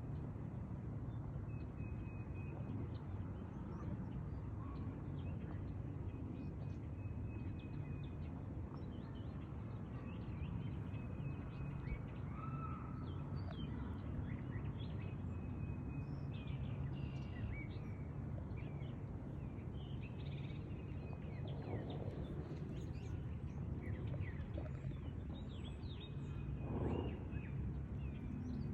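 Shoreline ambience: a steady low rumble, with small birds chirping and calling on and off throughout. A brief louder sound comes near the end.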